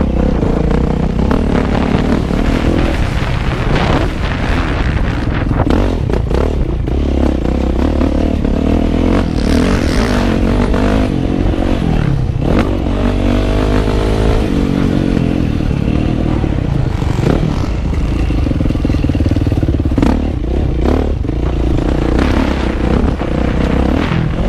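Motocross bike's engine heard on board while riding, its pitch rising and falling again and again as the throttle is opened and closed, with knocks and rattles from the bike over rough ground.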